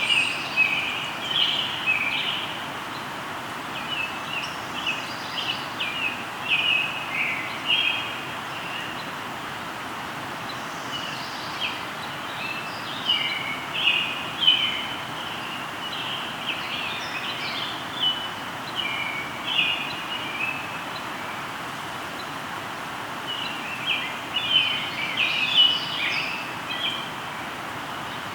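Songbirds singing in clusters of short, quick chirps, with brief lulls around ten seconds in and again about two-thirds through, over the steady rush of a flowing river.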